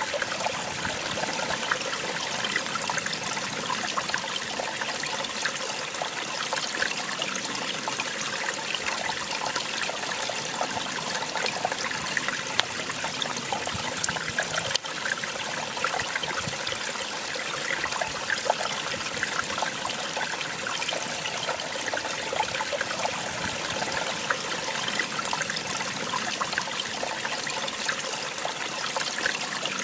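Small waterfall splashing and trickling steadily, a continuous rush of falling water with fine splashes, with a single brief click about halfway through.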